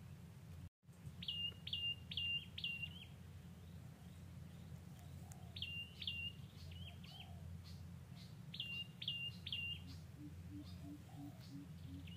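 A bird calling in runs of three or four quick high notes, each note flicking down and then holding briefly, a run every three to four seconds, over a steady low hum.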